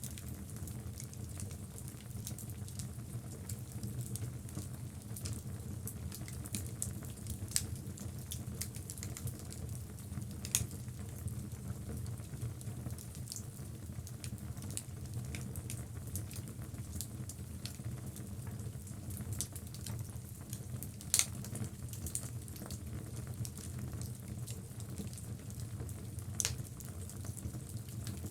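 Wood logs burning in a fireplace: a steady low rumble of flame with irregular crackling and a few sharper pops, the loudest about two-thirds of the way through.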